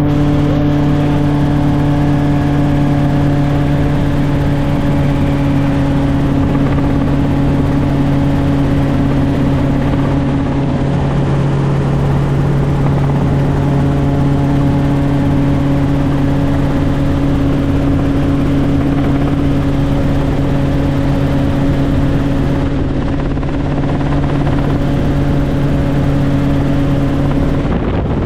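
Helicopter in flight: a loud, steady drone, a strong low hum with higher tones over rushing air noise. The hum drops away near the end, leaving the rushing noise.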